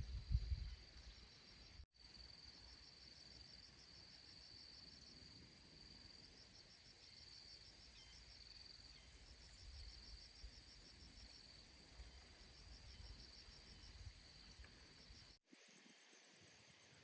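Insects chirring in the countryside: a steady high hum with an evenly pulsing trill beneath it. The sound breaks off abruptly twice, about two seconds in and near the end.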